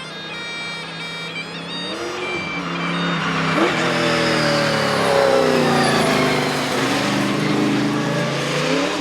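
Holden Torana SLR 5000's V8 engine under hard acceleration: it holds steady for about two seconds, then revs rise and drop through several gear changes, growing louder toward the middle.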